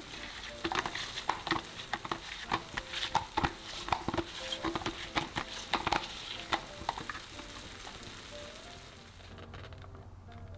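Food sizzling as it fries in a pan, with a utensil stirring and knocking repeatedly against the pan for the first several seconds. The sizzle fades out near the end.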